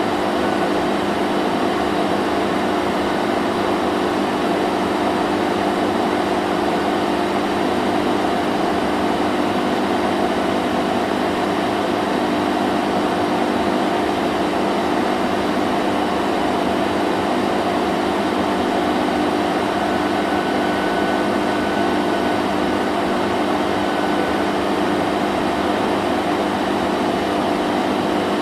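Vacuum cleaner running steadily: an unchanging motor hum over a rush of air.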